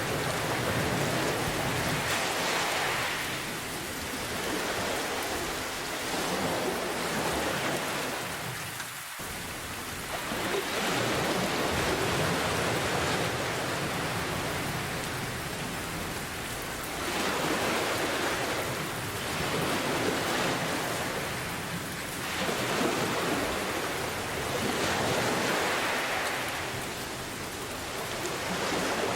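Steady heavy rain with ocean waves surging and receding every few seconds.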